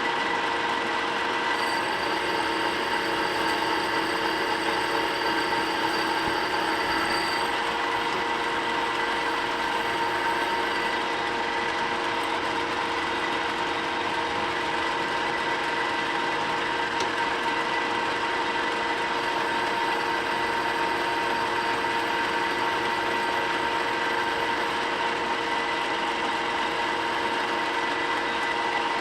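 Machine tool running steadily with a constant whine, machining a forklift rim to a measured size. Fainter high-pitched tones come and go for the first ten seconds or so and again in the second half.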